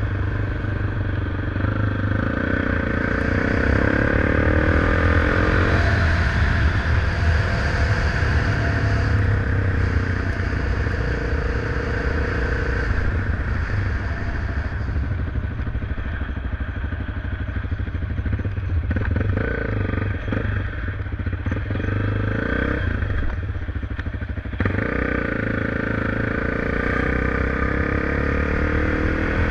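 Motorcycle engine running while being ridden, its pitch rising and falling with the throttle, over a steady low rumble.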